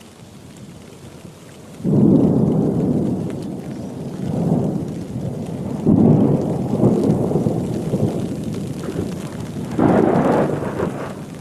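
Thunder rumbling over steady heavy rain. The rumble comes on suddenly about two seconds in and rolls on with several swells, the last of them near the end.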